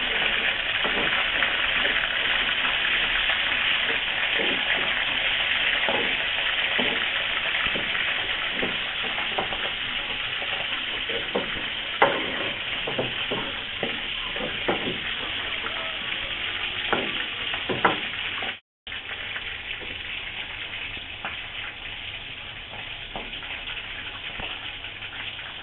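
Chicken pieces frying in hot oil in a wok, a steady sizzle with a spatula knocking against the pan now and then as they are turned. After a brief break about two-thirds through, the sizzle carries on at a lower level.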